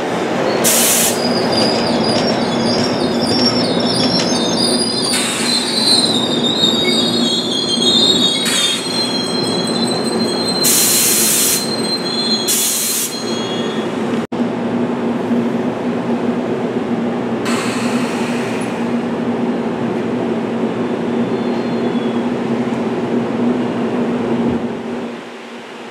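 NJ Transit Comet V passenger coaches rolling past close by: a steady rumble and hum, with high-pitched wheel squeal through roughly the first half and several short hissing bursts. The sound falls away about a second before the end.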